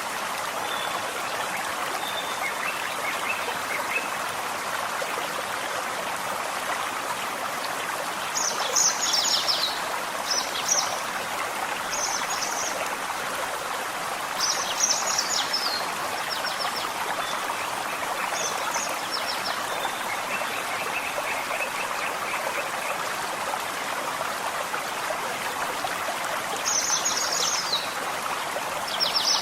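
Forest stream flowing steadily, with a songbird singing short, high, quick phrases every few seconds, clustered through the middle and again near the end. Fainter, lower bird calls sound now and then.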